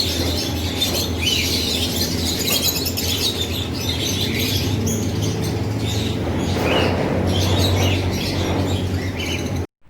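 Many cage birds chirping and tweeting at once in a dense, continuous chorus over a steady low hum. The sound starts and cuts off abruptly.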